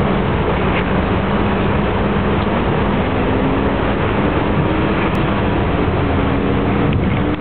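Lexus IS-F's 5.0-litre V8 running at low revs as the car creeps slowly past, with a steady engine note under a constant rush of noise.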